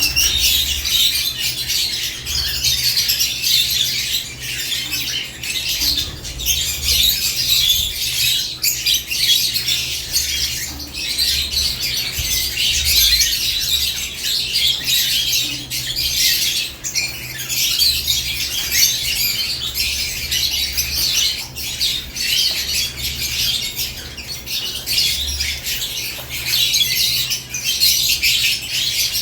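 A cage of lovebirds chattering: many birds giving overlapping high-pitched chirps and squawks in a dense, unbroken din.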